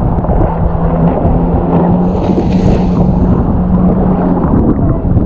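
Strong wind buffeting the microphone on a choppy sea, with a steady low motor hum underneath that rises slightly about two seconds in and fades out near the end.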